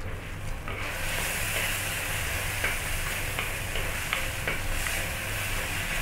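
Chopped onion and tomato sizzling in oil in a pan, the sizzle growing louder about a second in once the lid is off, with a wooden spatula stirring and scraping against the pan in a few light ticks.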